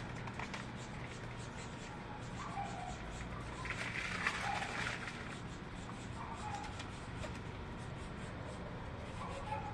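Birds giving a few short, scattered calls over a steady low hum, with a brief rustling or chattering patch in the middle.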